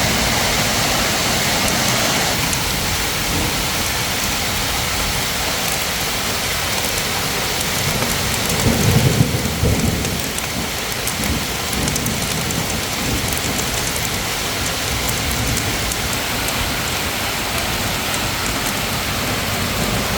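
Heavy rain pouring down steadily, with a low rumble of thunder that swells and fades about nine seconds in.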